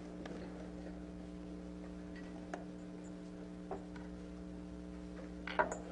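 Steady low electrical hum on an old recording, with a few faint clicks scattered through it and a faint rustle near the end.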